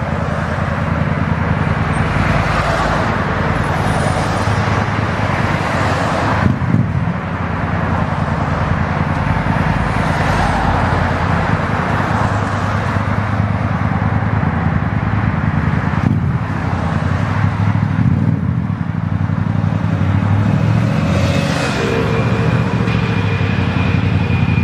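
Motorcycle engine running steadily under way, beneath a constant rush of wind and road noise, with a couple of brief dips in level.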